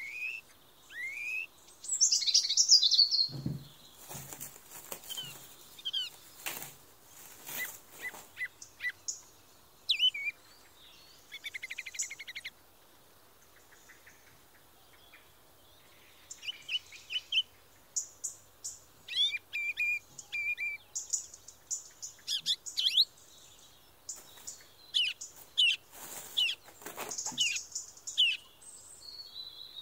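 Small birds chirping and singing throughout: many short chirps, quick whistled notes and trills. A few brief rustling or knocking noises come in around the first quarter and again near the end.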